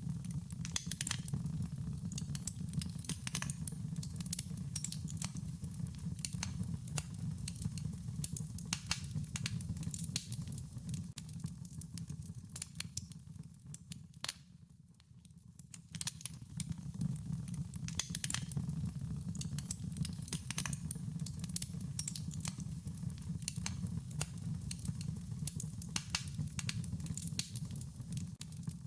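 Wood fire crackling: irregular sharp pops and snaps over a steady low rumble of the burning fire, briefly dying down about halfway through.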